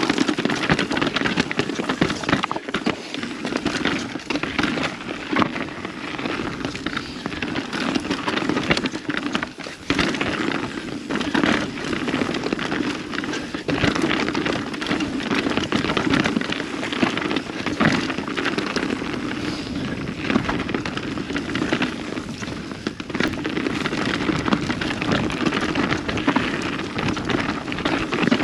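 Mountain bike descending a dirt trail: the tyres crackle over dirt and gravel and the bike rattles over bumps, with sharp knocks all the way through.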